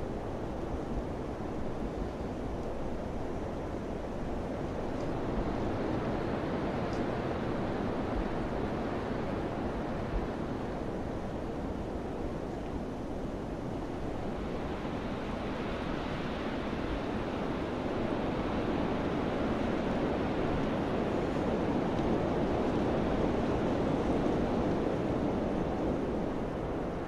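Wind blowing steadily and rising in gusts, swelling about halfway through and again near the end.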